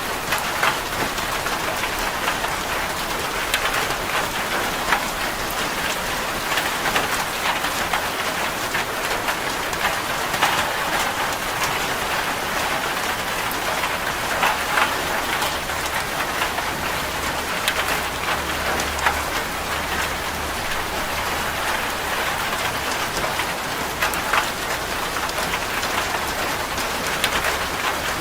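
Steady rain falling on a corrugated zinc sheet roof: a constant hiss of rain with many sharp individual drop impacts pattering on the metal.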